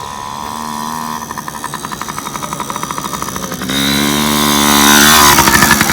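Small two-stroke dirt bike engine running and growing louder, with a jump in level about four seconds in and at its loudest near five seconds.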